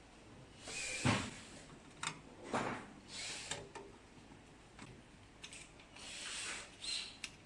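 Scattered clicks, scrapes and rattles of tools and metal and plastic parts being handled as screws are taken out inside a flatbed printer; the loudest knock comes about a second in.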